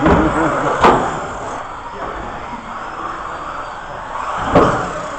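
Electric RC cars running on an indoor track in an echoing hall, faint high motor whines over a steady din of voices, with two sharp knocks, one about a second in and one near the end.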